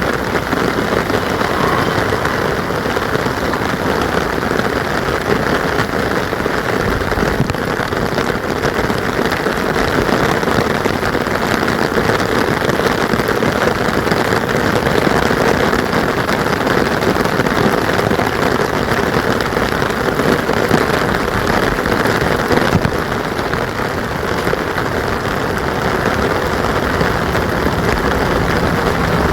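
Steady heavy rain falling on a surface: a dense, even hiss with no let-up.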